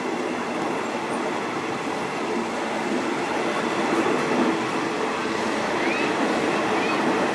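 State Railway of Thailand passenger train rolling on the rails, heard from an open coach window with another train's coaches close alongside: a steady, dense rumble of wheels and coaches that grows slightly louder as the train picks up speed.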